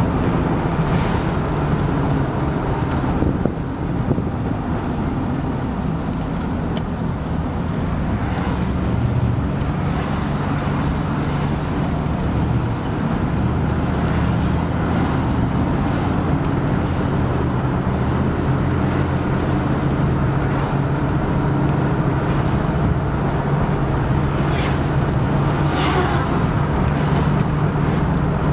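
Steady engine and road noise from driving, a continuous low hum that holds level throughout.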